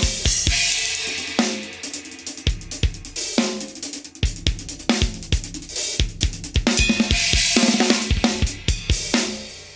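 Drum kit played in a steady groove: bass drum and snare strokes under hi-hat and crash/ride cymbals from a RECH Diablo series set. The playing stops shortly before the end and the cymbals ring out and fade.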